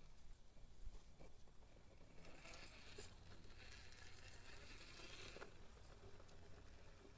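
Near silence: faint background hiss with a few soft taps.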